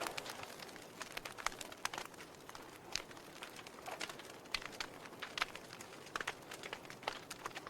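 Wood fire burning in a fireplace, crackling with irregular sharp pops and snaps over a soft hiss.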